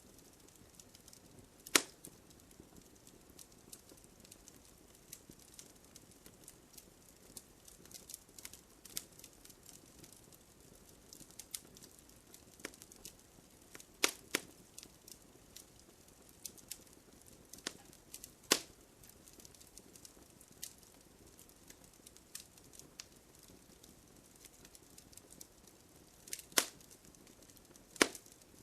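Wood campfire crackling: a steady run of small ticks with five loud, sharp pops, spaced irregularly, as the burning wood snaps.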